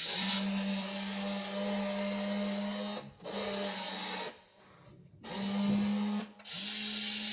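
Small electric motors and gearboxes of a WLtoys RC excavator whining as it works, running in four stretches with short stops in between as the controls are moved.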